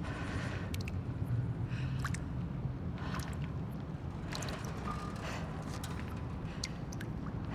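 Abandoned-building ambience: a steady low rumble with small clicks, ticks and creaks scattered through it, and a brief thin creak about five seconds in.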